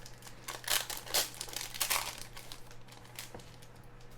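Trading card pack wrapper crinkling as it is handled and opened, in a cluster of bursts over the first two seconds that thins out, with one more crinkle a little after three seconds.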